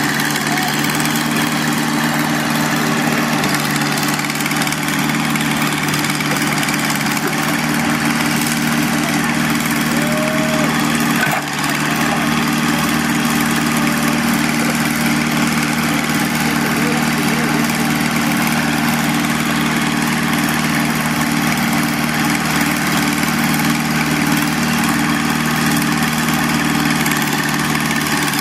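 Backhoe's diesel engine running steadily at idle, with a brief dip about eleven seconds in.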